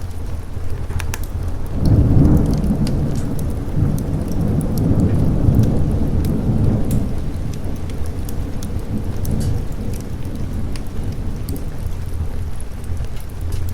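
A low roll of thunder swells about two seconds in and rumbles for several seconds before fading, over steady rain. Scattered sharp crackles from a fireplace sound throughout.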